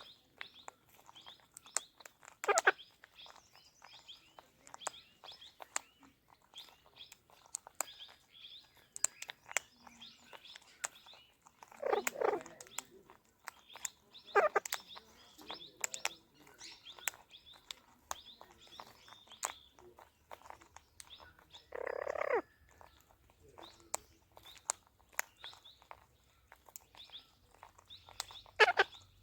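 Ringneck parakeet chirping rapidly and continually, with about five louder, harsher calls spread across the stretch.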